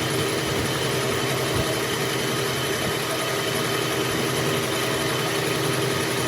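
An engine running steadily at idle, holding one even pitch.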